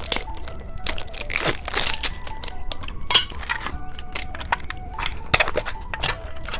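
Plastic candy wrapper crinkling and crackling in hands, a run of irregular sharp crackles, as a gummy candy's packaging is handled and opened.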